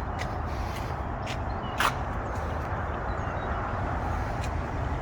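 Steady low rumble of an idling vehicle engine under outdoor background noise, with a few light clicks and one sharp click about two seconds in.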